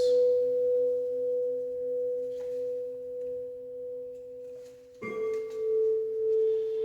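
A struck metal tone instrument ringing with one clear, pure tone that slowly fades and wavers. About five seconds in, a second strike sounds a slightly lower tone, which rings on.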